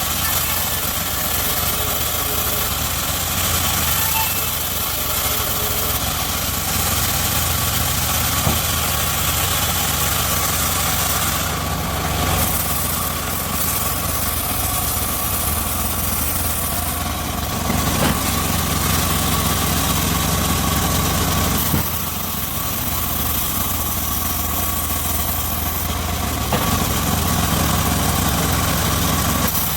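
Engine-driven home-built circular sawmill running steadily with its blade whining, getting louder and heavier for a few seconds past the middle and again near the end, as the blade is loaded in the cut.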